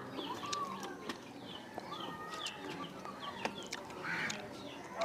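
Birds chirping: many short, quick high calls one after another.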